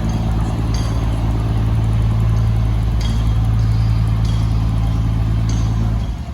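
Fishing boat's engine running steadily with a deep, even hum. It stops abruptly about six seconds in.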